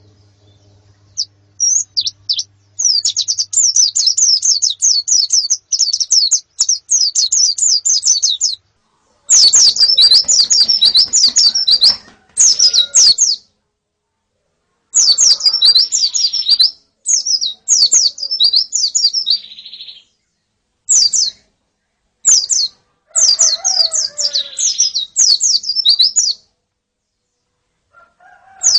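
White-eyes (pleci) chirping in rapid runs of thin, high calls, in bursts of a few seconds with short silent breaks between.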